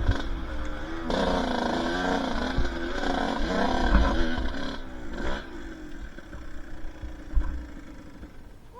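Two-stroke dirt bike engine revving, its pitch wavering up and down, then settling to a steadier, lower drone that fades away near the end.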